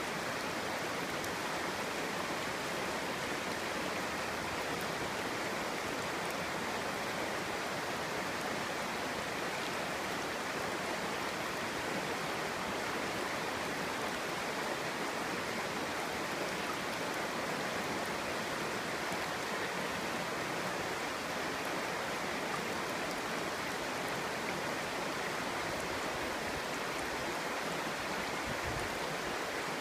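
Clear stream flowing steadily over rocks, a continuous burbling rush of water.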